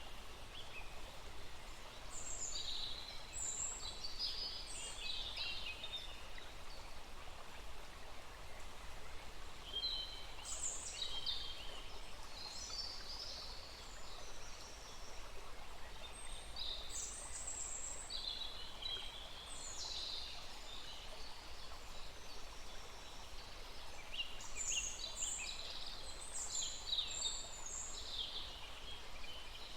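Songbirds singing in short phrases of high, quick chirps and trills, with pauses of a few seconds between them, over the steady rush of a small stream.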